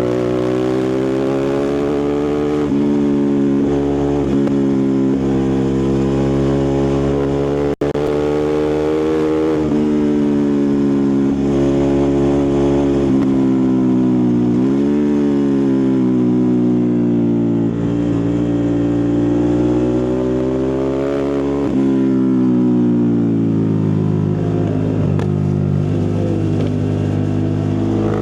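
Ducati Multistrada 1260 Pikes Peak's V-twin engine and exhaust under way, its pitch climbing as it accelerates and dropping back again and again as it shifts or rolls off the throttle. The sound cuts out for an instant about eight seconds in.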